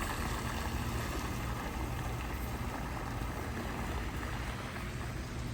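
Steady city street ambience: an even low rumble with a wash of noise above it, with no single event standing out.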